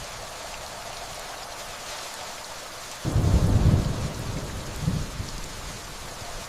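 Steady rainfall with a deep rumble of thunder that starts suddenly about halfway through, swells again a second or so later and dies away.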